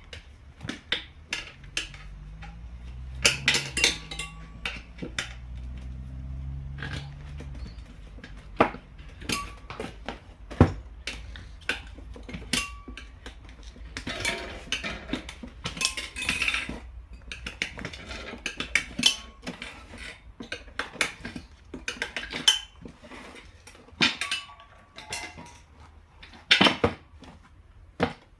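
Metal hand tools and parts clinking and knocking in irregular short strikes during work on a motorcycle's rear wheel. A low hum that steps in pitch runs under the first eight seconds or so.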